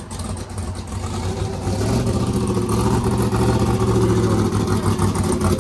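Limousine engine running steadily, picking up slightly about two seconds in and holding there.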